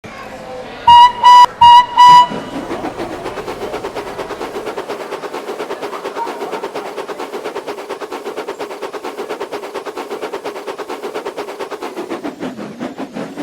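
Train whistle sounding four short, very loud toots, then the train running with a fast, steady rhythmic beat of about five or six pulses a second.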